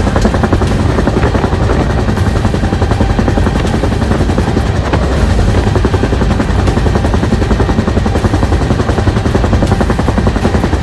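Bell UH-1 Huey helicopter in flight: its two-blade main rotor beats in a rapid, steady chop over the running turbine, loud and unbroken.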